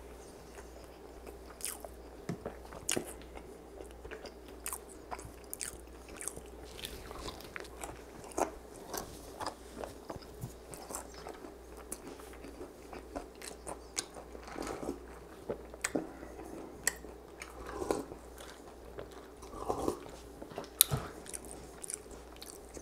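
Close-miked chewing and biting of a flaky Jamaican beef patty: irregular crunchy clicks of eating, with no speech.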